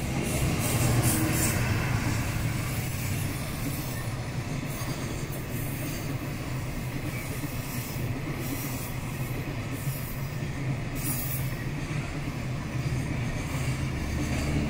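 JR Freight container train, hauled by an EF210 electric locomotive, passing: a steady rumble and clatter of the container flatcars' wheels on the rails, loudest about a second in.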